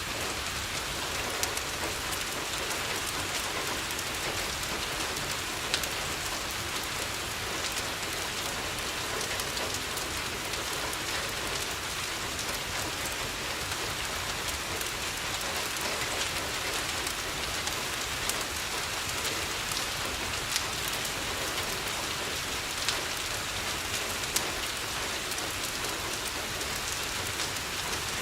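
Steady rain on a window, with occasional sharp crackles and pops from a wood fire in a fireplace.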